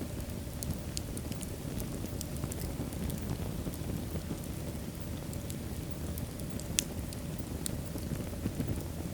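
Wood fire in a fireplace burning, a steady low rush of flame under scattered small crackles and pops, with one sharper pop about seven seconds in.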